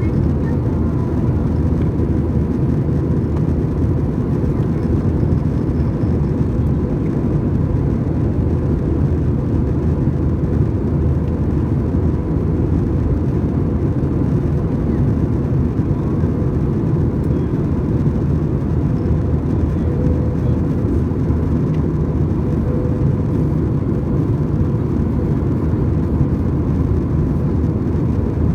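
Airbus A320 cabin noise in flight: a steady, unbroken rumble of engines and rushing air, with a faint steady hum on top.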